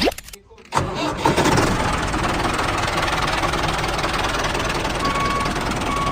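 An engine starts up about a second in and then runs steadily, with a few short faint beeps near the end.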